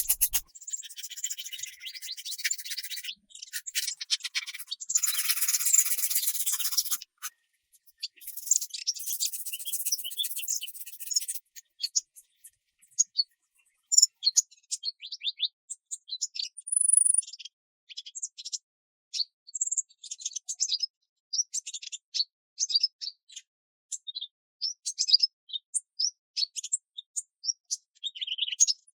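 Birds chirping and calling. For the first eleven seconds or so the calls are dense and overlapping, then they thin out to scattered short chirps and a few high whistles.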